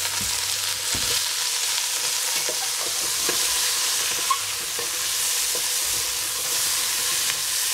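Cauliflower and zucchini pieces sizzling in hot oil in a stainless steel pot over high heat, a steady hiss, while a wooden spatula stirs them, scraping and knocking against the pot, with one sharper knock a little past halfway.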